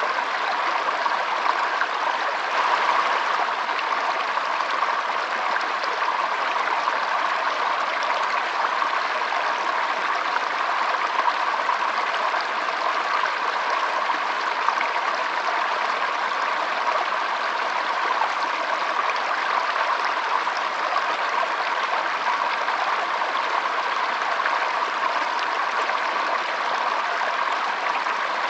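Flowing stream, a steady rush and babble of water.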